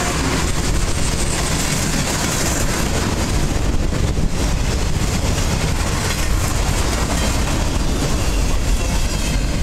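Freight train cars rolling past close by: rail-rack flatcars and a boxcar, their steel wheels on the track giving a steady, loud rumble.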